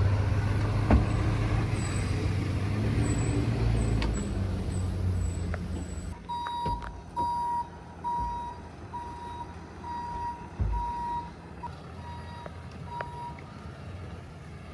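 A vehicle's engine runs steadily and goes quiet about six seconds in. Then a vehicle's electronic warning beeper sounds a steady single-pitch beep about twice a second, with a few light knocks in between.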